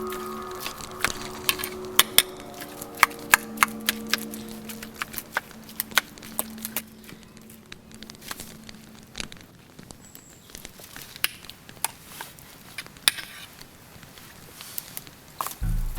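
Wood fire crackling: irregular sharp snaps and pops, some loud, over a faint hiss. Music fades out during the first half, and new music comes in near the end.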